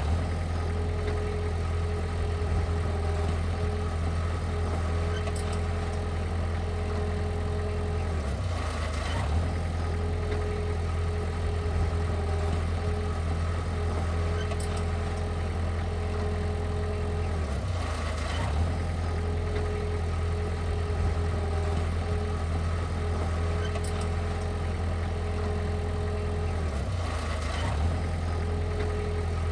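Heavy diesel machinery engine running steadily with a deep drone and a thin whine over it. About every nine seconds there is a brief click and the whine drops out for a moment.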